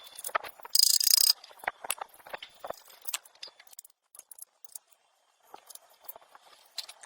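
Scattered light clicks and knocks of hand work, with one short, loud hiss about a second in.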